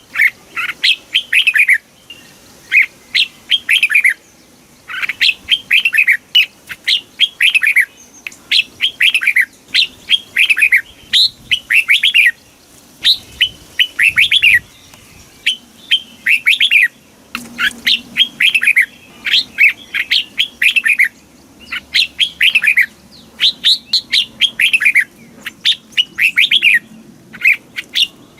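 Red-whiskered bulbul singing: loud, quick phrases of a few clear notes that sweep down in pitch, repeated about once a second with short pauses between them.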